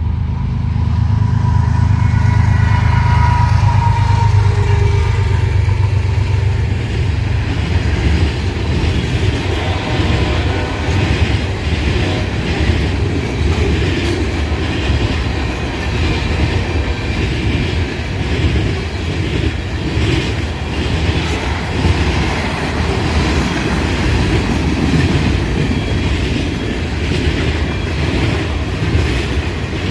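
Freight train passing close: the deep rumble of the diesel locomotives in the first several seconds, then the steady clatter and rumble of freight cars rolling by on the rails.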